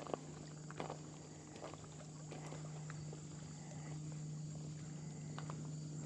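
Steady high-pitched insect trilling over a low steady hum, with soft footsteps crunching on a dirt trail every second or so.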